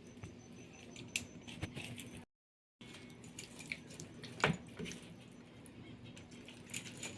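Faint, scattered clicks and soft wet taps from a knife scoring a raw whole chicken.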